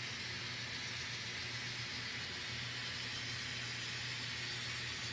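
N scale model diesel locomotive running steadily, its ESU LokSound decoder playing a diesel engine sound as a steady low hum, with an even hiss over it.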